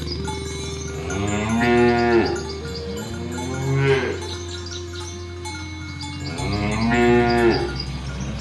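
Domestic cattle mooing, three long calls a couple of seconds apart, each rising and then falling in pitch.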